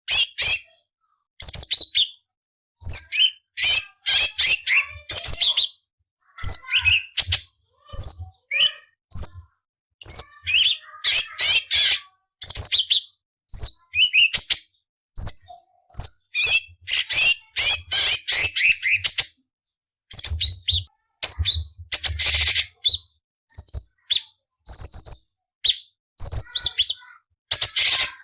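Orange-bellied leafbird (cucak cungkok) singing in quick bursts of sharp chirps, sweeping whistled notes and harsh rasping phrases, each burst lasting about a second and separated by short pauses.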